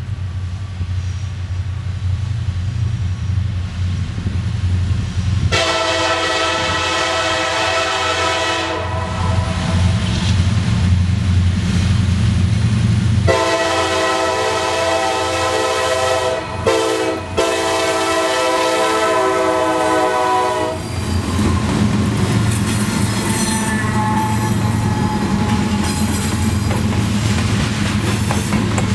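CSX EMD SD70MAC diesel-electric locomotive approaching with its engine running, sounding its horn in long blasts from about five seconds in until about twenty-one seconds in, broken briefly a few times. The locomotive then passes and loaded grain hopper cars roll by, their wheels clattering on the rails.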